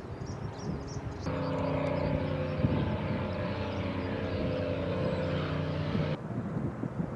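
Propeller aircraft engines droning steadily overhead. The drone cuts in sharply about a second in and cuts off just as sharply about six seconds in, with faint bird chirps before it.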